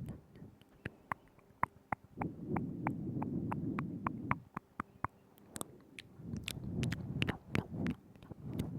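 Close-microphone ASMR mouth sounds: a steady run of short, wet tongue and lip clicks, about three or four a second, with two stretches of a low murmur between them.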